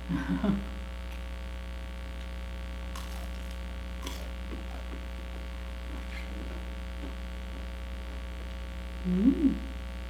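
Steady electrical mains hum, with faint crunches of crispy fried pork intestine (chicharon bulaklak) being chewed about three and four seconds in, and a brief voiced 'mmm' near the end.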